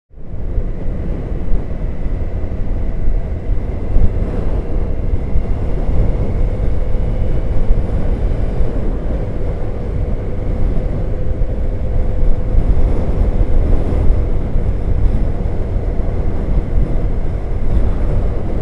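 Motorcycle on the move, heard from a camera on the bike: a steady engine drone under heavy wind rumble on the microphone, with a faint steady engine tone that drifts slightly in pitch.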